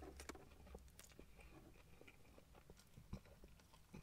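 Faint chewing of a mouthful of crispy chicken burger: soft, irregular mouth clicks and squelches, with one sharper click about three seconds in.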